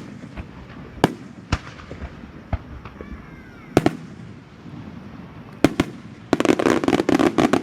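Fireworks display: separate sharp bangs of shells bursting every second or so, then from about six seconds in a dense, rapid crackle of many small reports, the loudest part.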